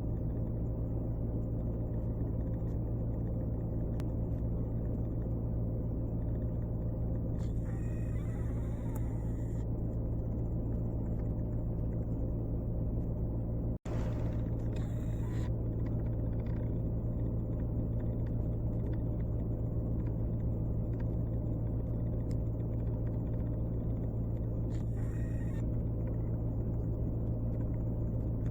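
Steady low mechanical rumble with a constant hum, broken by a short hiss about eight seconds in and again near the end.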